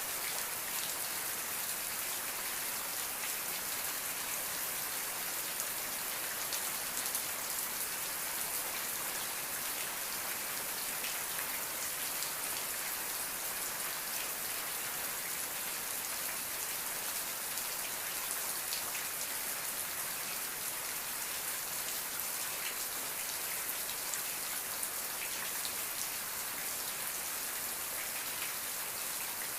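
Steady rain falling, an even hiss of countless drops pattering on a surface, with no thunder.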